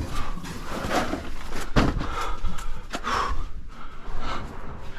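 A caver breathing hard, with gasping, snorting breaths, while crawling through a tight cave passage. Two sharp knocks or scuffs come partway through.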